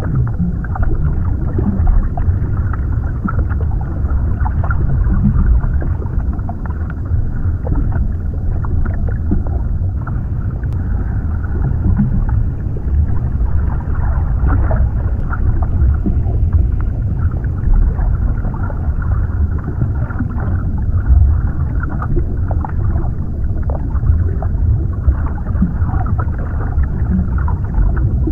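Underwater ambience: a steady, muffled low rumble of water, heard as if submerged, with nothing bright above it and many brief faint crackles scattered through it.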